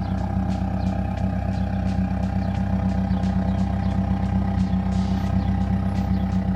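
Subaru WRX's FA20 2.0 L turbocharged flat-four engine running steadily, with no change in pitch, after its fuel injectors were replaced.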